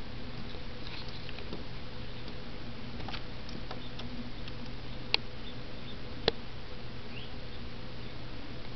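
Faint high bird chirps over a steady low hum, with two sharp clicks about five and six seconds in.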